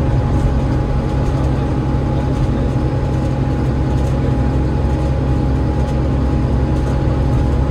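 Cabin sound of an Enviro500 MMC double-deck bus under way, its Cummins ISL8.9 diesel and drivetrain giving a steady heavy rumble with a thin constant whine above it.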